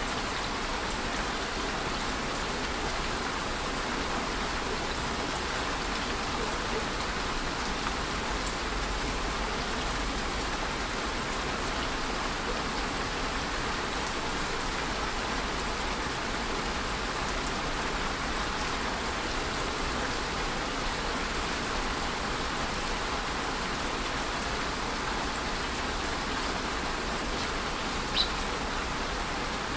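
Steady rain falling, a dense even patter of raindrops with a few single drips standing out now and then.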